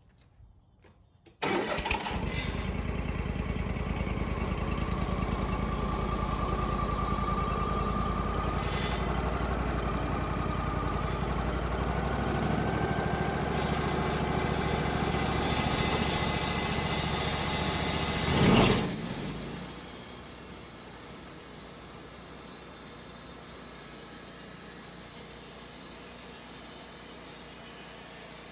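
Portable sawmill's gas engine starting abruptly about a second and a half in and running steadily, with a short louder burst around three quarters of the way through.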